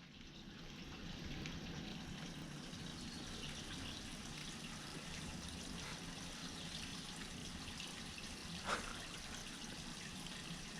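Steady trickling of running water, with one brief sharp sound about nine seconds in.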